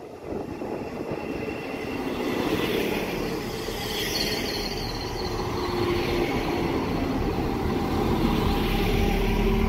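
PESA SA132 diesel railbus arriving at a platform and slowing, its wheels running on the rails with the engine beneath. The sound grows louder as the cars pass close, with squealing tones from the wheels and brakes coming in as it brakes to stop.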